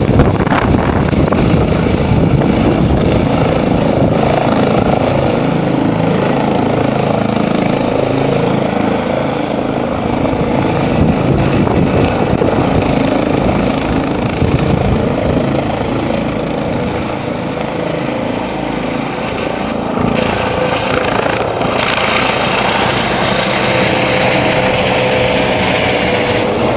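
Medical helicopter's rotor and turbine engine running loud and steady as it takes off.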